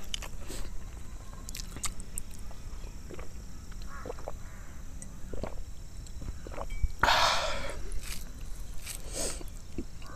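Close-up eating sounds of a person chewing a mouthful of egg curry and rice, with scattered wet mouth clicks, and a louder noisy crunch or slurp about seven seconds in.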